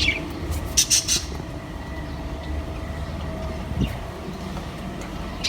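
Caged pet parrots giving a few short squawks in the first second or so, then mostly quiet, over a steady low rumble.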